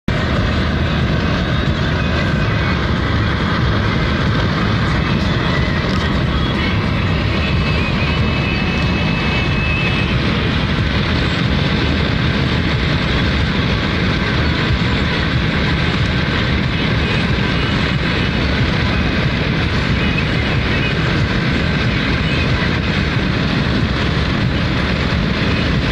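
Steady engine and road noise of a moving car, with no sudden change.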